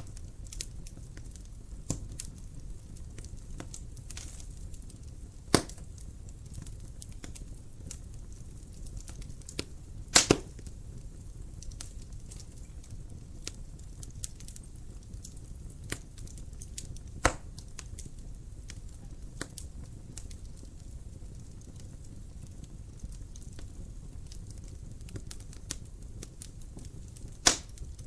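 Wood fire crackling in a fireplace: a steady low noise of burning under many small crackles, with a handful of loud sharp pops, the loudest a quick double pop about ten seconds in.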